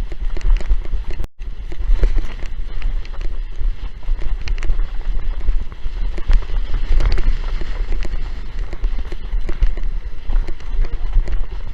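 Strong wind buffeting the microphone, with constant crackling spatters of water spray and chop while windsurfing. The sound cuts out for an instant about a second in.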